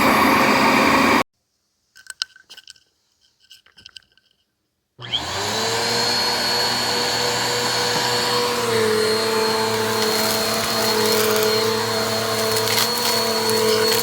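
Bissell vacuum cleaner running, then stopping abruptly about a second in. After a few seconds of near silence with faint clicks, the motor starts again about five seconds in, its whine rising and settling into a steady running hum with a high whine on top.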